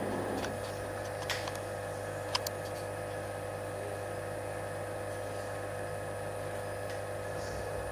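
CNC spring-coiling machines running in a workshop: a steady machine hum with a few held tones, and a few sharp clicks about a second in and again around two and a half seconds in.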